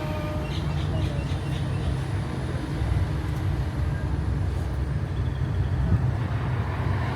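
Tourist road train driving along, heard from aboard: a steady low engine and road rumble. A few faint high chirps come in the first second or so.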